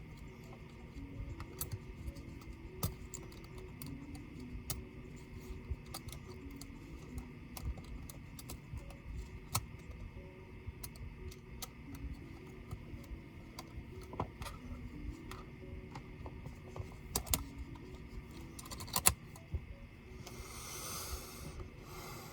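Small irregular clicks and taps of tools and plastic and metal parts as a Dell Vostro 13 5310 laptop is taken apart, one sharper click about three-quarters of the way through and a brief scraping hiss near the end, over faint background music.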